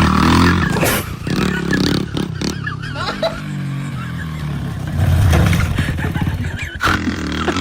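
Motorcycle engine running and revving, its pitch rising and falling, with a stretch of rapid, even pulsing a little past the middle.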